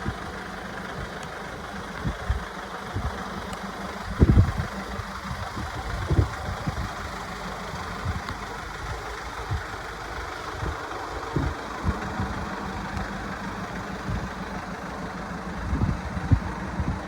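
Mercedes Sprinter recovery truck's engine idling steadily, with a few short low thumps over it, the loudest about four seconds in.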